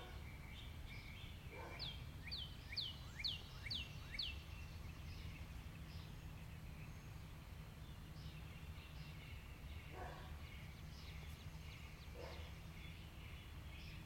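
A songbird singing: a quick series of about six clear notes, each sliding down in pitch, about two a second, with fainter chirps scattered around it over a steady low background hum.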